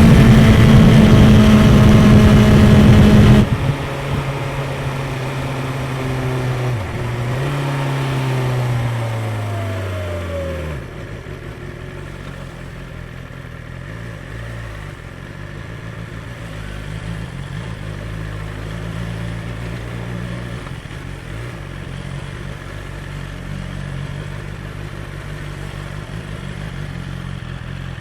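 BMW S 1000 XR inline-four engine on its stock exhaust, held at high revs for a few seconds and then dropping off suddenly. It picks up briefly about eight seconds in, winds down with falling pitch, and settles into a steady idle with small wobbles in speed.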